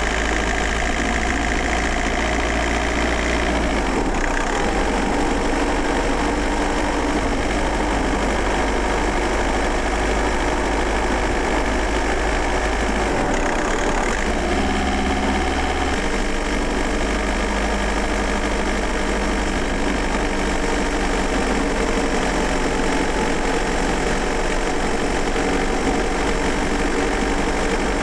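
VW Golf Mk4 1.9 TDI four-cylinder turbodiesel running steadily with its diesel clatter, heard from inside the car. Its note shifts slightly about four seconds in and again around fourteen seconds in.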